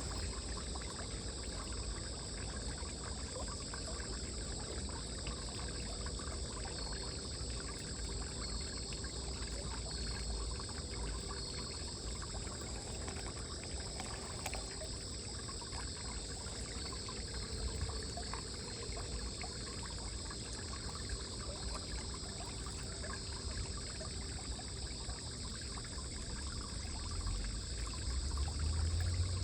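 Water trickling and running steadily, with a steady high-pitched drone above it. A low rumble swells near the end.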